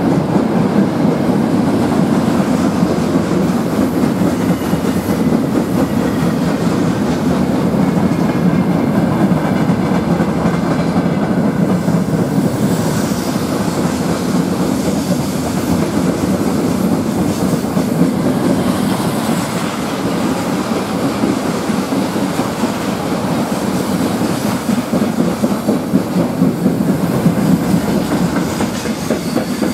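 Train wheels running on rails, a steady dense rumble with clatter from the track. A thin, high wheel squeal starts near the end.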